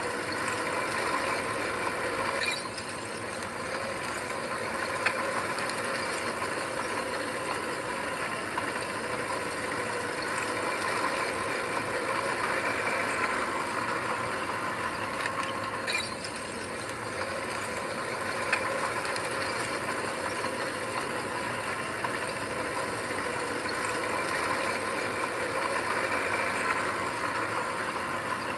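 Bulldozer working: its engine running steadily under continuous metallic clanking and rattling from the machine, with a few sharper clanks.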